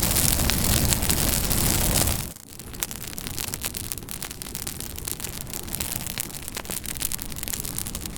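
Campfire crackling: a dense, louder rush of burning with crackles that drops off suddenly about two seconds in, then quieter crackling with frequent sharp pops.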